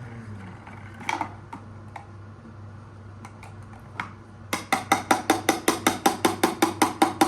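Hammer knocking on a hard object: a few single knocks, then about four and a half seconds in a fast, even run of taps, about five a second, each with a short ringing tone.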